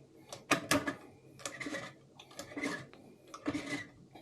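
Hand-turned valve seat cutter scraping on a diesel cylinder head's valve seat, metal on metal in short strokes about once a second, with small clicks.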